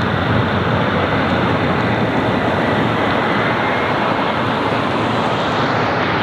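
Jet airliner engines running: a steady roar with a faint high whine held on top.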